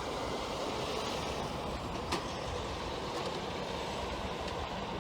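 Steady hiss of rain falling, with one sharp tap about two seconds in.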